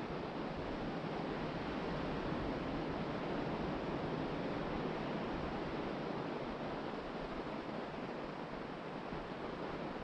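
Ocean surf breaking and washing onto a sandy beach in wind: a steady rushing noise that swells a little a few seconds in and eases slightly near the end.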